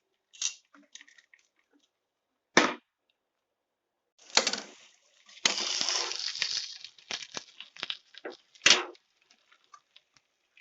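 Kitchen handling noises: a few sharp knocks and clinks, the loudest near the end, with a rough scraping, rustling stretch in the middle.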